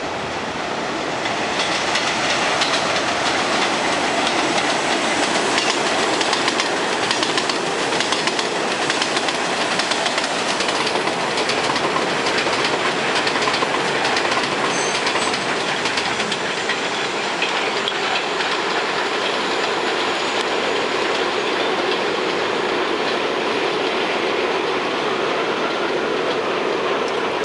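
R62A subway cars of a 7 express train running through the station without stopping: loud steady wheel-on-rail noise with rapid clacking over the rail joints, thickest in the first half. A faint rising whine comes in near the end.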